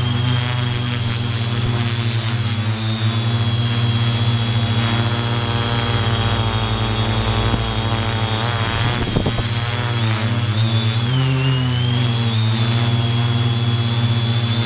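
Battery-powered drone's motors and propellers running in flight, a steady buzzing hum with a thin high whine over it. The pitch wavers and dips about two-thirds of the way in as the motors change speed.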